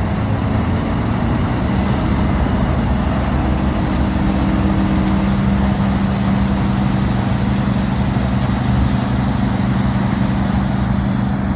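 Large farm machinery engine running steadily under load, its pitch settling a little higher about two seconds in and then holding.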